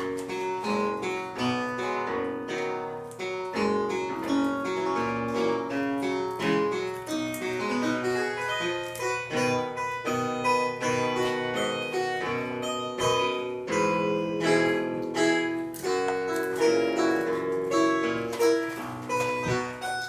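Piano playing a tune, a steady run of quick notes and chords.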